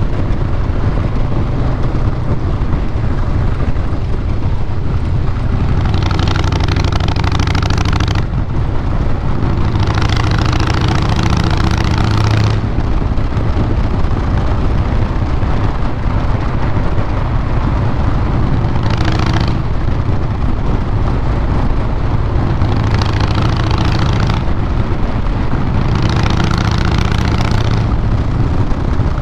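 Harley-Davidson Fat Boy Lo's Twin Cam 96B V-twin running steadily through Vance & Hines Big Radius 2-into-2 exhaust pipes. A rushing hiss rises over the engine several times and drops away again.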